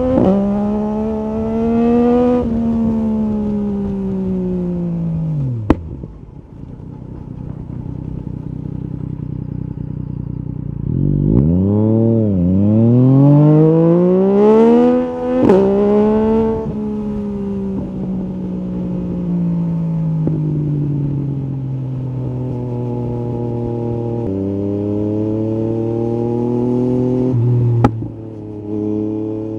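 Yamaha MT-09 SP's three-cylinder engine through an Akrapovic carbon Racing-Line exhaust with the baffle out, heard from the rider's seat. It revs up and rolls off several times, dropping low about six seconds in and pulling hard again from about eleven seconds, with steps in pitch at the gear changes. Two sharp cracks come, about six seconds in and near the end.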